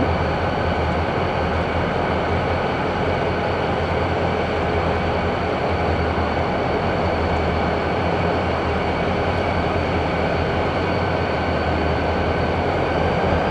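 Freight train moving through a rail yard: a steady rolling rumble with a low hum and a faint, steady high whine.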